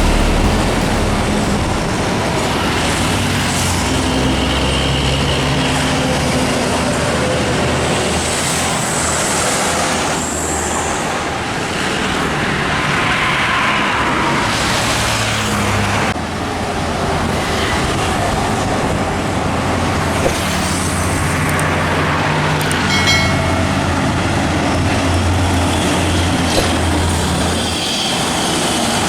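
Heavy trucks and other road traffic passing by, diesel engines running with a low hum that swells and fades as vehicles go past. A short pitched tone sounds about three quarters of the way through.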